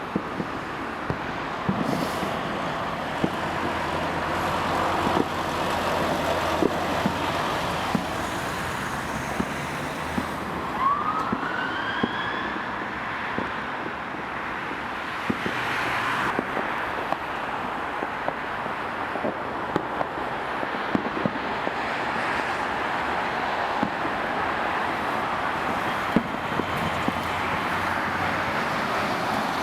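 Fire engine driving on an emergency call with its siren sounding, under steady road and wind noise with many small knocks. A brief rising whistle cuts through about eleven seconds in.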